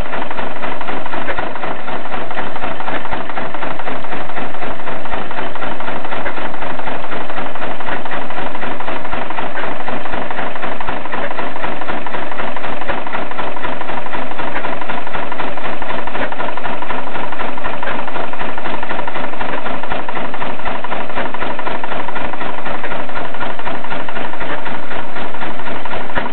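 Sabb G-model single-cylinder 10 hp marine diesel engine running loudly with a steady, even knocking beat.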